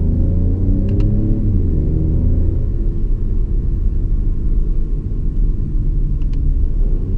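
Inside the cabin of a DS 3 Crossback: the 1.2 PureTech turbocharged three-cylinder petrol engine is running under way with steady road rumble. The engine note holds for the first couple of seconds and then slowly falls as the car eases off. Two faint clicks come about a second in and near the end.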